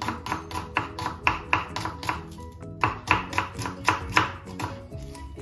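A kitchen knife slicing an onion on a wooden cutting board: quick, even strikes about four a second, with a brief pause about halfway through. Background music plays under the cutting.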